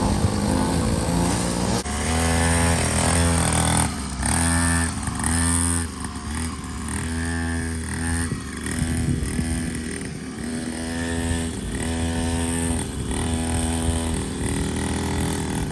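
Small dirt bike engine ridden hard, revving up and dropping back again and again as the rider throttles and changes gear.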